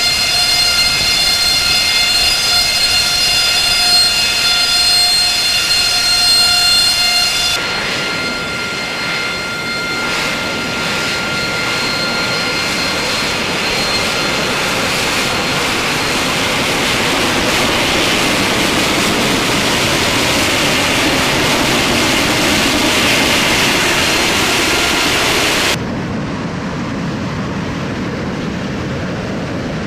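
AV-8B Harrier II's Pegasus turbofan running: first a high whine of several steady tones over the jet noise, then, after an abrupt change about eight seconds in, a rushing roar that builds, and after another abrupt change near the end a duller, somewhat quieter roar.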